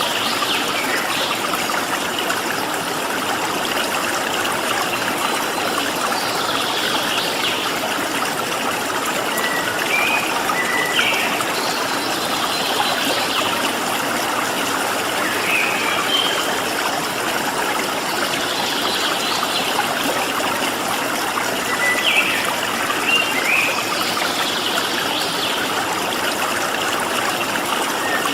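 Stream water flowing steadily, with small birds chirping briefly every few seconds over it.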